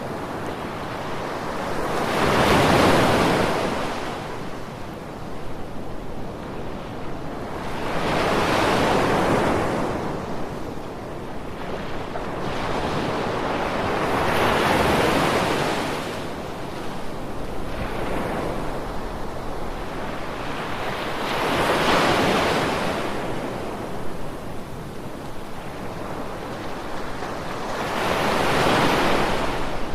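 Ocean waves breaking on a beach, five slow surges about every six to seven seconds, each swelling and washing away over a steady wash of surf.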